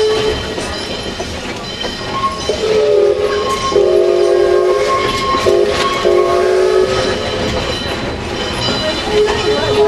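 Steam locomotive whistle sounding a chord of several tones in a few blasts, starting about two and a half seconds in and lasting some four seconds. Underneath, the train's running noise and wheels clicking over the rail joints carry on throughout.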